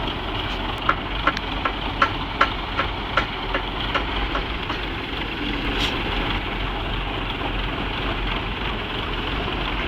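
A vehicle engine running steadily, with a run of about a dozen sharp knocks, close to three a second, from about a second in to about the middle.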